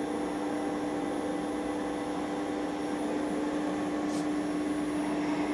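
Brand 850 NE CNC surface grinder running with a steady machine hum, one clear tone held over a noise background, and a short high hiss about four seconds in.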